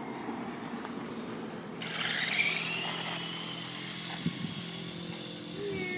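A small scooter motor starting up: a low hum, then about two seconds in a sudden louder high whine that climbs in pitch and then holds steady.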